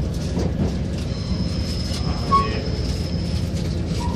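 Passenger train running, heard from inside the carriage: a steady low rumble of wheels on the track. A faint high whine comes in about a second in and fades after three, with a brief squeak a little past two seconds.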